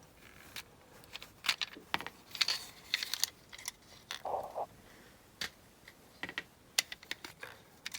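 Scattered light clicks and taps from handling a die-cast model car's base and wheels while its soft tyres are taken off, with a brief rubbing sound about four and a half seconds in.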